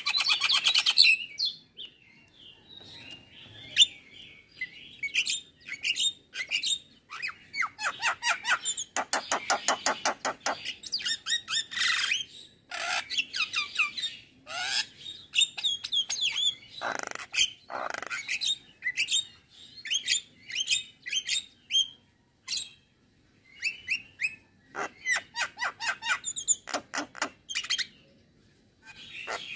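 Male Javan myna singing a long, varied song: fast chattering runs, sharp whistled notes and harsh squawks, broken by short pauses.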